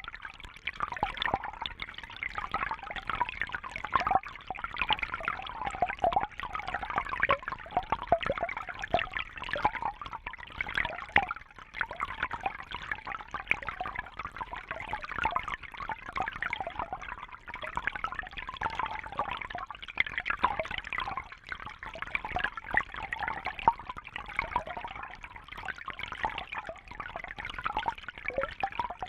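Fish tank water trickling and bubbling steadily, a dense patter of small splashes and drips.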